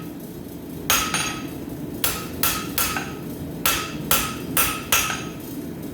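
Rounding hammer striking hot steel bar on an anvil, forging it out: about a dozen blows in uneven runs starting about a second in, each with a short metallic ring.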